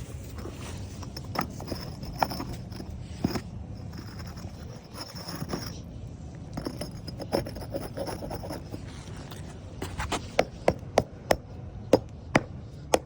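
Concrete pavers being handled, with scattered knocks and scrapes as they are lifted and set down, then a run of sharp taps, about three a second, near the end as they are knocked into place.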